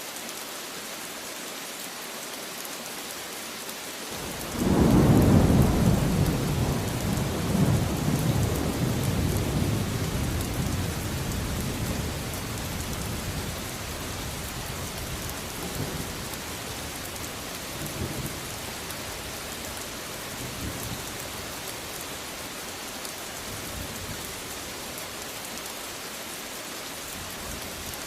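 Steady rain falling, a constant hiss. About four and a half seconds in, thunder breaks in and rolls on in a long low rumble that fades over some ten seconds, with a few fainter rumbles after it.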